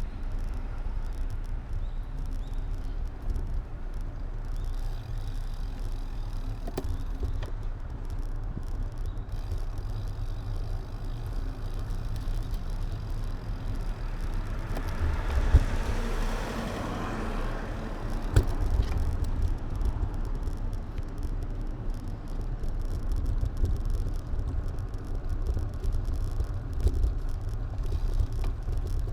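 Steady low wind and road rumble on an action camera's microphone while riding. About halfway through a passing vehicle swells and fades over a few seconds, with a couple of sharp knocks around it.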